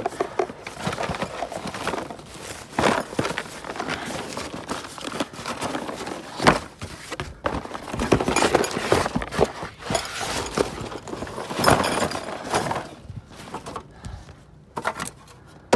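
Boxes of door hardware being shoved and shifted around: irregular clunks and knocks of heavy parts with cardboard scraping and rustling between.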